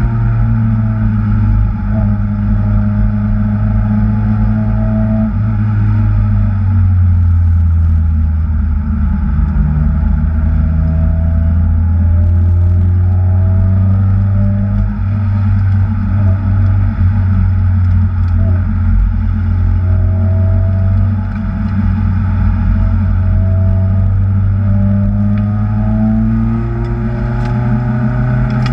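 Kraftwerks-supercharged Acura TSX engine being driven hard, its pitch repeatedly rising and falling with throttle and gear changes.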